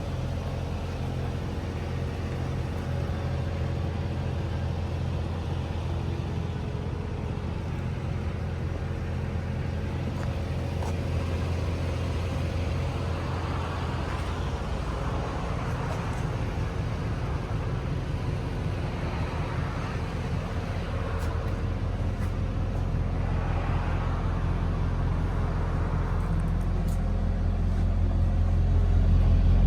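Mercedes E63 AMG's 6.2-litre V8 idling with a steady low exhaust burble, growing louder near the end.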